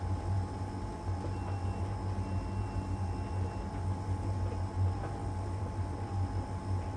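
LG heat pump tumble dryer running mid-cycle in its drying phase: a steady low hum with a steady higher whine over a soft rushing noise.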